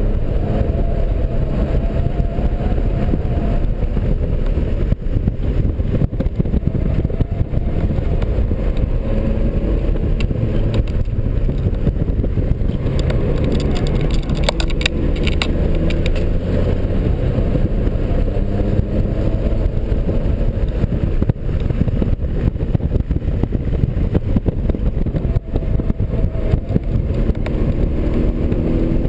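A BMW 330i's 3.0-litre inline-six engine running hard at track speed, heard inside the cabin. Its pitch rises and falls with throttle and gear changes and climbs again near the end. Road and wind noise run steadily underneath, with a short burst of higher clicks or rattle about halfway through.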